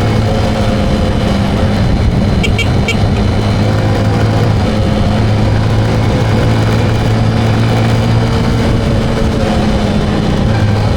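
Motorcycle engine running steadily under way, with a loud, even drone and road and wind noise. About two and a half seconds in come three short high-pitched beeps, like a horn toot.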